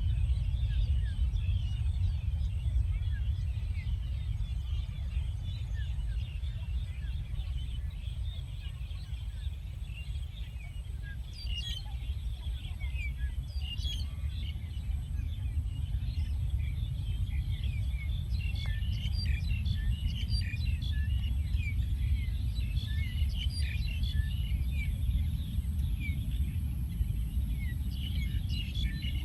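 Many small birds chirping and calling over a steady low rumble.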